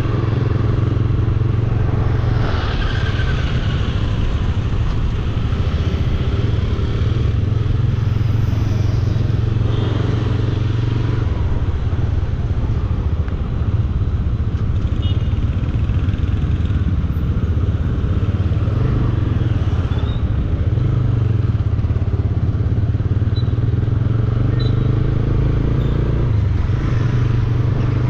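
Bajaj Dominar 400 motorcycle's single-cylinder engine running steadily on the move, its pitch shifting a little now and then with the throttle, over road noise.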